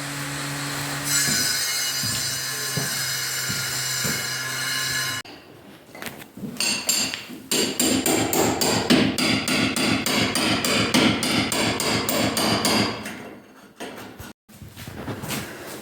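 A steady mechanical hum for the first five seconds, then, after an abrupt break, a hammer striking fast and repeatedly, about five blows a second, for around five seconds, during brick fireplace masonry work.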